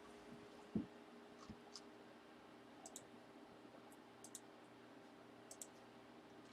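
Near silence with a faint steady hum and a few small, sharp clicks, in pairs, plus one soft low thump about a second in.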